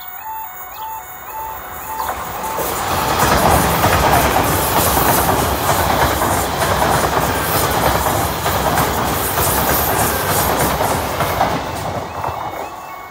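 Great Western Railway Class 800 bi-mode train running on diesel as it passes over a foot crossing: a loud rush of wheels on rail and underfloor engines that swells about two seconds in and fades near the end. The crossing's two-tone warbling warning alarm sounds at the start and returns near the end.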